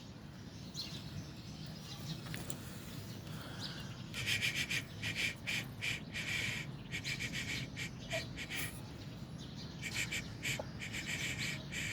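Bird calls: two runs of rapid, repeated chirps, one about four seconds in and one near the end, over a steady low background noise.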